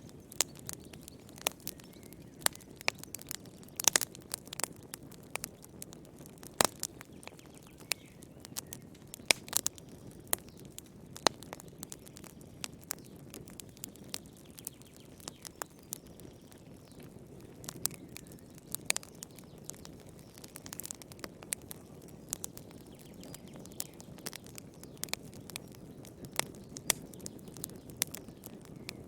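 Wood fire crackling in a fireplace: irregular sharp pops and snaps, some much louder than others, over a low steady rumble of burning.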